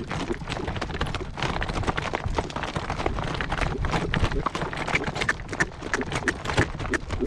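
Horse's hooves clip-clopping at a walk over a rocky dirt track, an uneven run of sharp hoof strikes on stones, over a steady low rumble.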